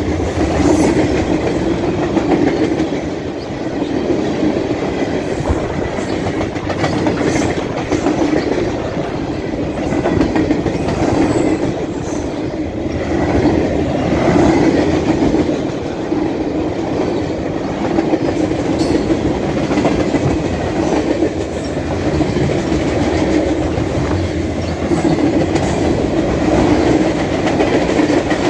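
Freight cars (covered hoppers and boxcars) rolling past close by: a continuous loud rumble of steel wheels on rail, with scattered sharp clacks.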